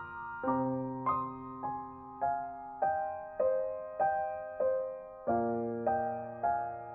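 Background music: soft solo piano playing a slow, gentle melody of evenly spaced notes, about one every 0.6 seconds, over held bass notes.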